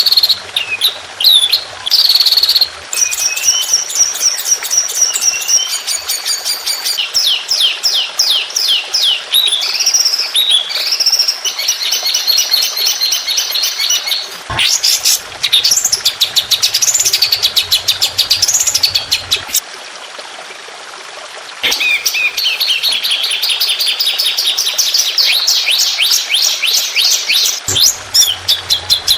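Songbird singing fast runs of repeated high chirps and rapid trills, mixed with sweeping whistled notes: the burst-note 'tembakan' phrasing of a masteran training recording. There is a short lull about two-thirds of the way through.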